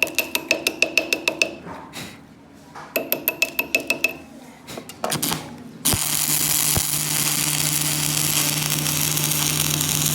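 Metal tapped rapidly with a ringing tick, in two short bursts. About six seconds in, a steady crackling hiss with a low hum starts and keeps going, the sound of welding a new layer of metal onto a broken pinion gear.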